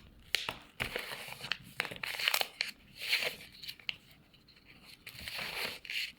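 Sheet of paper being handled and folded: irregular crinkling rustles and small crisp clicks as it is turned over and pressed into creases.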